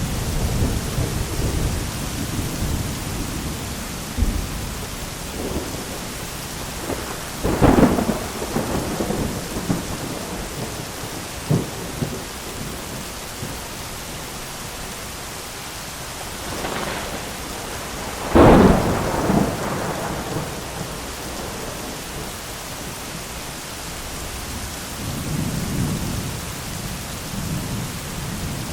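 Thunderstorm with steady rain. A rumble of thunder fades at the start, then two sharp, close lightning cracks about 8 and 18 seconds in each roll off into rumbling, and a softer rumble comes near the end.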